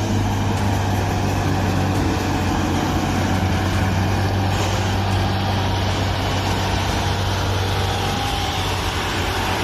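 Large vehicle engine running steadily, with an even low hum and no change in speed.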